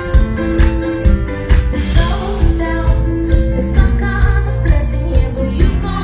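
A live pop band playing, with a steady drum beat about twice a second under sustained keyboard and bass notes.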